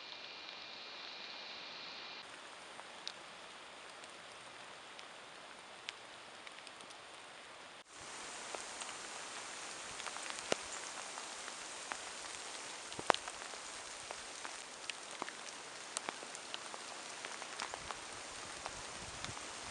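Steady rain falling, an even hiss with many separate drops ticking close by. About eight seconds in it becomes louder, with denser, sharper drop hits.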